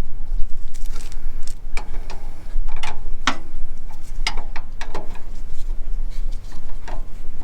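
Irregular clicks, clinks and knocks of hand tools and suspension parts being handled while a rear shock absorber is worked into its mount, over a steady low rumble.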